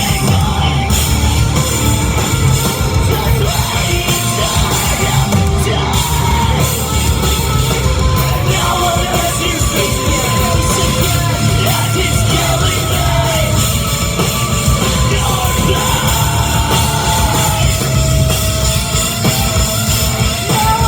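Live rock band playing loudly and without a break, with yelled and sung vocals over the band.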